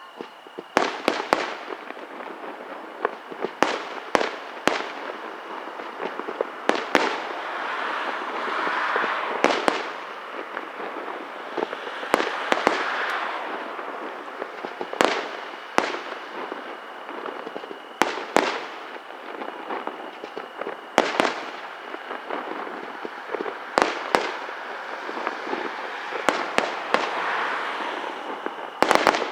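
Aerial fireworks display: sharp shell bursts every second or few, often two in quick succession, over continuous crackling and fizzing from the bursting effects.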